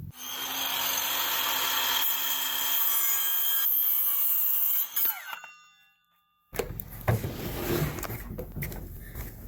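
Electric power saw cutting through a wooden board for about five seconds, then the blade winds down with a falling whine.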